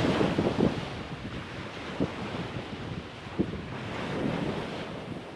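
Wind buffeting the microphone over the wash of small waves on a beach, with a couple of short gusty knocks.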